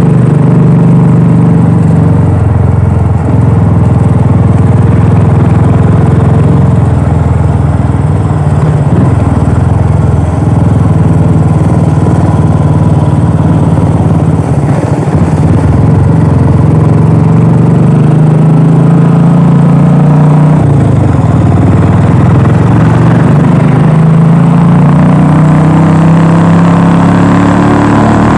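Royal Enfield Classic 350's single-cylinder engine and exhaust running while riding. The pitch drops briefly about twenty seconds in, then rises steadily near the end as the bike accelerates.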